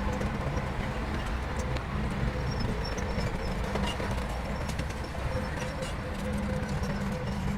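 Heavy diesel machinery engine running steadily, with scattered clicks and knocks over it.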